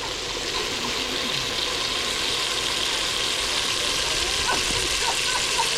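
Food sizzling in hot oil in a cooking pot: a steady hiss with a few small pops in the second half.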